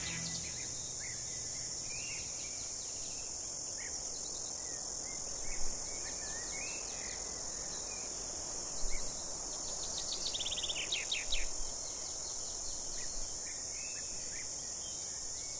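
Bushveld ambience: a steady, high-pitched insect drone with scattered short bird calls, and a quick run of clicks or a trill a little past the middle.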